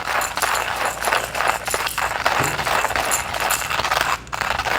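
Porlex hand coffee grinder grinding roasted beans on a fine setting: ceramic burrs crunching and crackling the beans in a steady, uneven stream of small cracks as the crank is turned.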